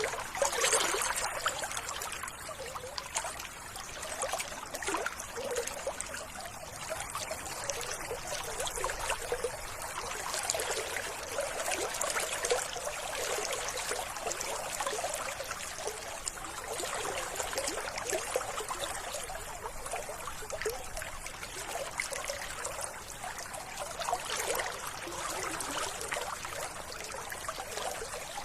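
Running water of a small stream trickling steadily.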